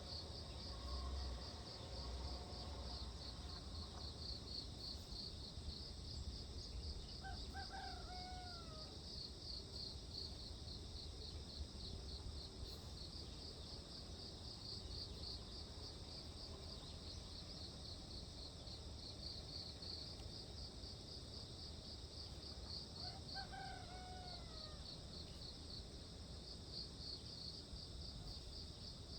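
Insects trilling in a steady, fast pulsing chirp, with a rooster crowing twice, about 8 seconds in and again about 23 seconds in, each call falling in pitch at its end.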